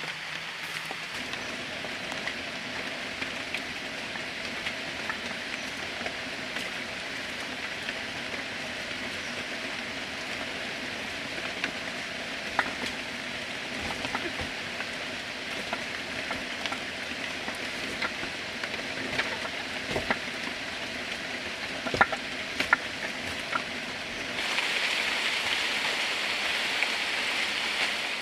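Steady rain falling, an even hiss with scattered sharp ticks of drops, suddenly louder and brighter about 24 seconds in.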